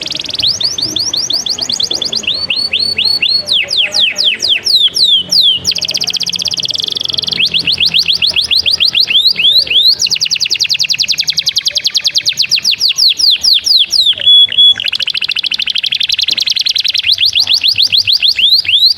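Domestic canary singing energetically: a continuous song of fast trills, each a rapid run of sharp repeated chirps that switches to a new pattern every second or two, with a short whistled note about 14 seconds in.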